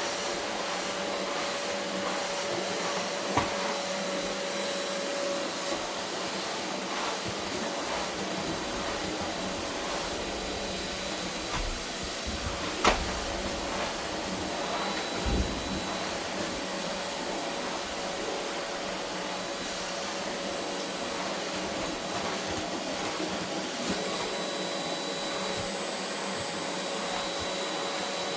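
Vacuum cleaner running steadily over a carpet, its motor giving a steady hum with a high whine, and a few sharp knocks as the head bumps or picks things up, the loudest about 13 seconds in.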